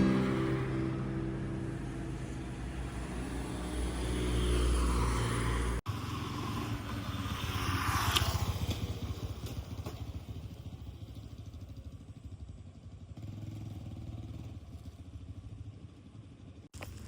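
A motor vehicle passing by, loudest about eight seconds in and then fading away, over outdoor background noise.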